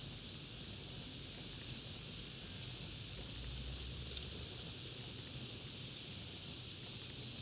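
Campfire crackling: a steady hiss with scattered small pops and snaps.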